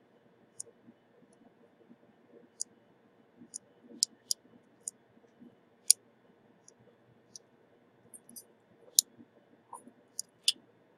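Irregular sharp, high clicks and ticks of small metal hand tools being handled at a microsoldering bench, about fifteen in all, scattered unevenly.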